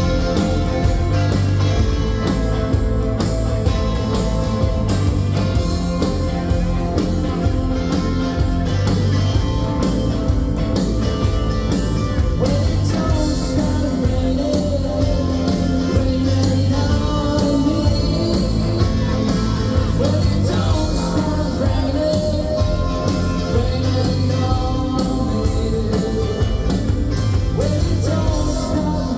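Live rock band playing a song: drums keeping a steady beat under guitars, with a singer's voice.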